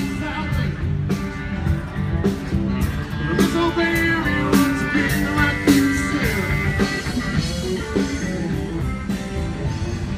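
Rock band playing: electric guitar and bass over a steady drum beat.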